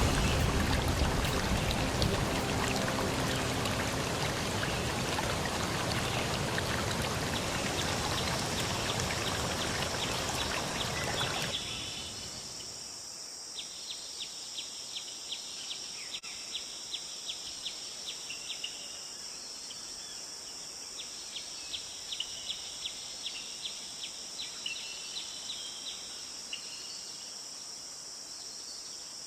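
Rushing water for about the first eleven seconds, then an abrupt change to a quieter scene: a steady high insect drone with runs of quick, repeated chirps.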